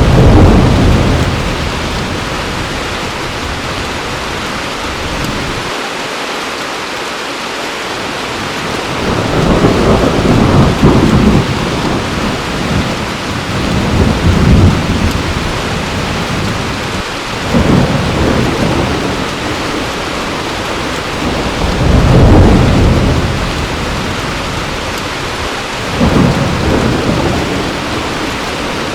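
Heavy rain falling steadily, with repeated rolls of thunder rumbling through it: a loud swell at the start, then more about every few seconds, the strongest near the start and about two-thirds of the way in.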